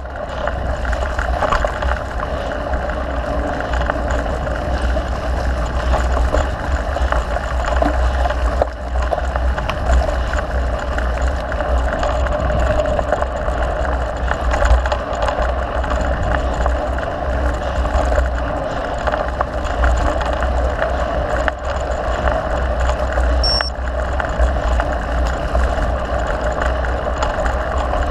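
Wind rushing over the microphone of a riding mountain biker, with the steady rolling and rattling of the bike on a dirt trail.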